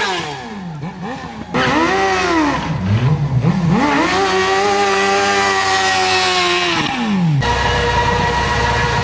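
Sport motorcycle engine revving hard, its pitch jumping up and down in quick blips, then held high for a few seconds before dropping away about seven seconds in; a steady, louder engine note follows.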